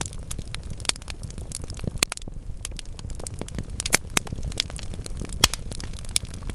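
Wood logs burning in a fireplace: a steady low rumble of flame with irregular crackles and sharp pops, the loudest pops about 2, 4 and 5½ seconds in.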